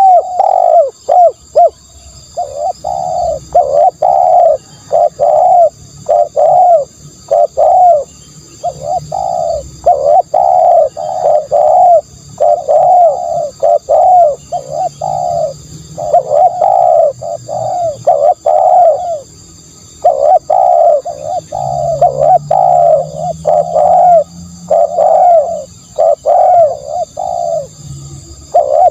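Spotted dove cooing its repeated coo-croo phrase over and over, with short gaps between groups of notes. These are the calls used as a decoy lure for spotted doves.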